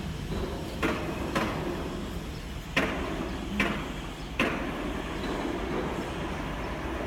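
A Beiben 4x4 truck running with a steady low rumble, with five sharp knocks in the first four and a half seconds.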